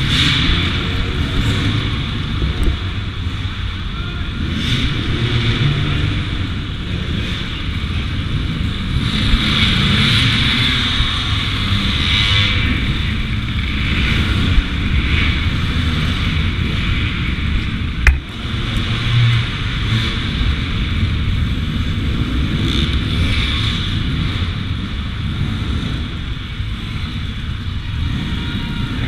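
Two-stroke 200 cc enduro motorcycle engine running and revving in bursts while the bike is worked over an obstacle. A single sharp knock about 18 seconds in is the loudest moment.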